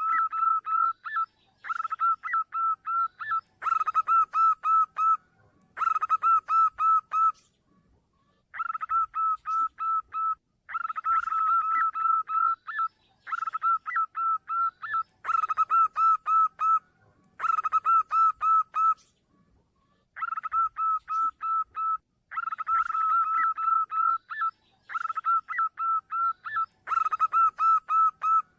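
Zebra dove calls: rapid series of short cooing notes, about five a second, in bursts of a second or so separated by brief pauses, repeated over and over. It is a perkutut lure call meant to draw other doves.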